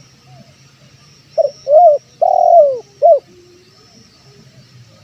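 Spotted dove (tekukur) cooing a lure call: a phrase of four coos about a second and a half in, a short note, a rising-and-falling one, a longer falling one, then a short one. Fainter coos sound in the background over a low steady hum.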